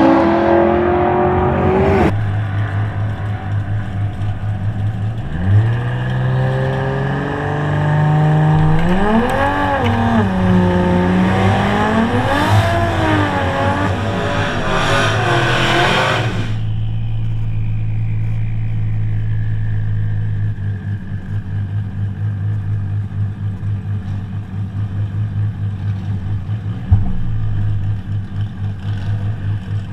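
2JZ inline-six drag car engine: a held high note that drops off about two seconds in, then a lumpy idle, then the throttle blipped up and down repeatedly for about ten seconds before it settles back to a steady idle.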